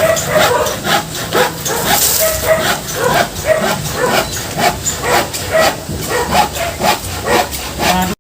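Dogs barking and yipping again and again, with repeated sharp knocks alongside.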